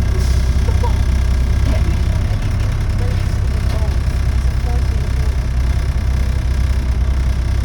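Volvo B7TL bus's six-cylinder diesel engine running steadily at low revs, with no revving up or down, through an exhaust that the owner describes as blown.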